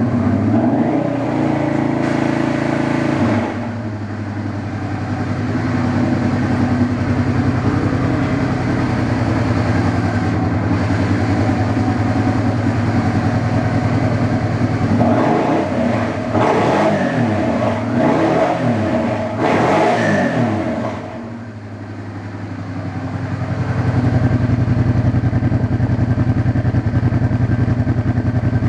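1988 Honda Hawk GT NT650's V-twin engine, warmed up, running with the exhaust baffle removed. It idles steadily, is revved up and down several times past the middle, sags briefly, then settles at a steady higher idle near the end.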